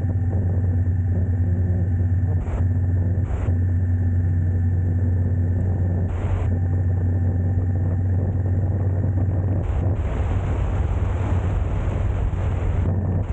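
A motor vehicle running steadily: a constant low engine and road drone, with a few brief bumps in the first half.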